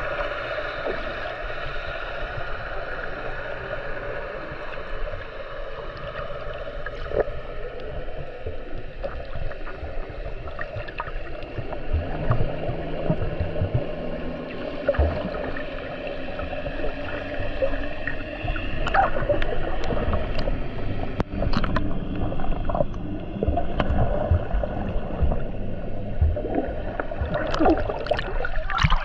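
Boat motor running steadily under way, with water rushing and slapping against the hull and scattered knocks and clicks in the second half.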